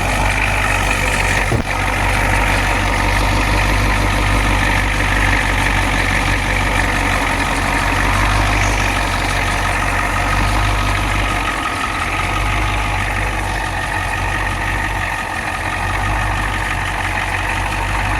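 An engine idling steadily, with a deep even hum.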